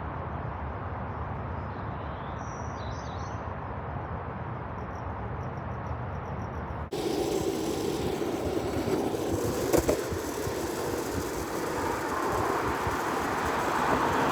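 Outdoor background noise: a steady low rumble with a few faint high chirps, then an abrupt cut about seven seconds in to a louder rushing noise with a single sharp click, building towards the end.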